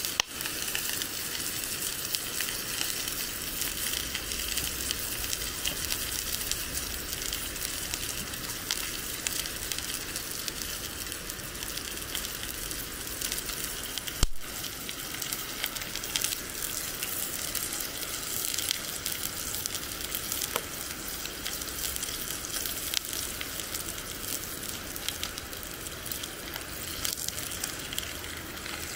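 Food sizzling steadily in a hot cast-iron pan, a continuous frying hiss with fine spitting crackles. A single sharp knock comes about halfway through.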